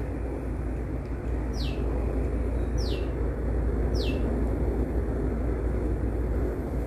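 A bird calling three times, about a second apart, each a short high whistle sliding downward, over a steady low background rumble.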